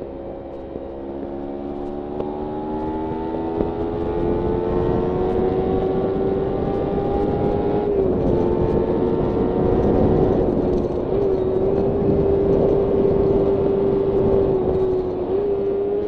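Kawasaki Ninja 300 parallel-twin engine pulling in one gear, its pitch climbing slowly for the first half and then holding nearly steady. Wind noise grows louder as the speed builds.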